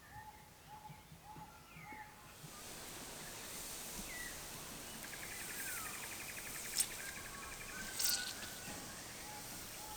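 Birds calling: short repeated notes and falling whistles, then a fast trill partway through. From about two seconds in a steady hiss joins them, with a couple of sharp clicks.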